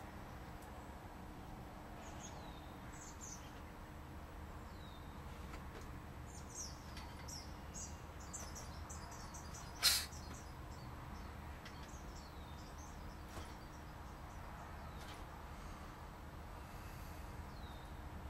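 Faint high bird chirps come now and then over a steady low hum, with a short run of chirps about six to eight seconds in. A single sharp tap, the loudest sound, comes about ten seconds in.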